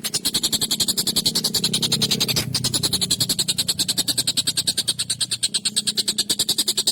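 Tengkek buto kingfisher giving a harsh, rapid rattling chatter, about a dozen notes a second without a break, over a low steady hum.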